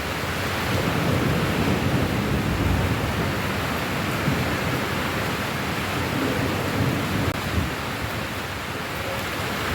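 Steady rain, an even rushing hiss, with a low rumble swelling under it about a second in and again later.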